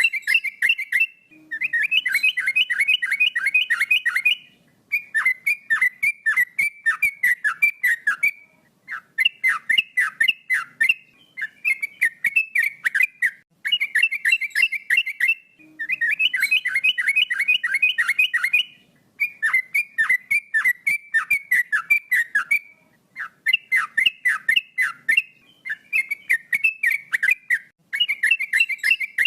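Male yellow-vented bulbul (trucukan) singing continuously: phrases of quick, separate whistled notes a few seconds long, pitched high, each followed by a short pause.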